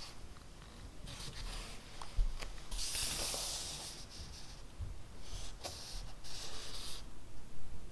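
Handwriting on paper: scratchy strokes of a pen tip across the page, coming in short runs with brief pauses. The longest and loudest stroke falls about three seconds in.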